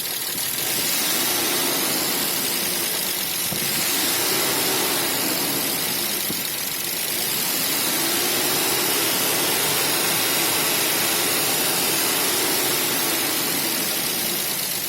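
BMW M50 2.0-litre straight-six engine idling, with hydraulic lifter ticking and a knock under the valve cover in the VANOS area. The knock appeared after the timing chains, chain tensioners and VANOS seal kit were replaced; the owner suspects the upper chain's hydraulic tensioner.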